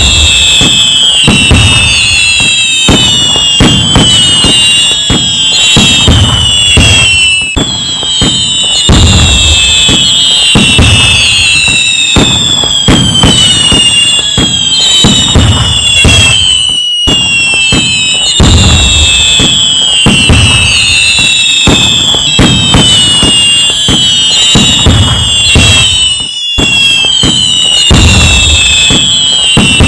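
Fireworks display going off in a dense barrage: constant crackling and bangs, low booms of bursting shells, and many whistles that fall in pitch. There are short lulls about 17 and 26 seconds in.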